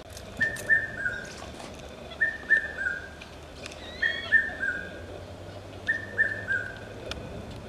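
A bird calling: a short phrase of three clear whistled notes, each a little lower than the one before, repeated four times about two seconds apart.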